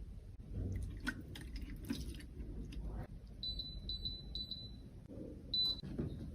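Light clicks and taps, then four short high electronic beeps in quick succession and a fifth about a second later.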